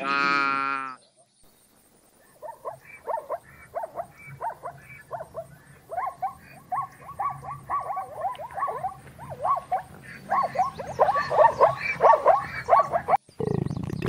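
A red deer stag's roar ends about a second in. From a little after two seconds, a zebra gives its barking call: a long series of short, sharp yelps, several a second, growing louder toward the end. Near the end a koala's deep, low bellow begins.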